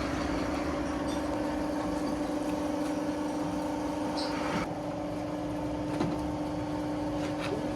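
Steady hum of running machinery, with a constant low tone and fainter higher tones over a noise bed; the hiss above it drops away a little past halfway.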